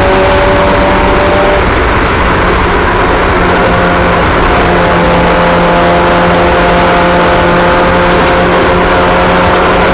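Race car engines running steadily at speed, several steady engine tones over a constant noise, with small shifts in pitch as the cars go around.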